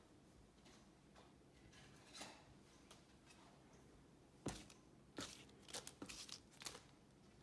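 Near-silent room with a few light, sharp clicks and knocks of something being handled, a cluster of them in the second half.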